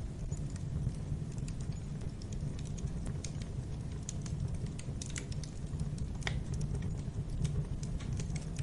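Wood fire in a fireplace crackling, with irregular sharp pops and snaps over a steady low rumble; one louder pop about six seconds in.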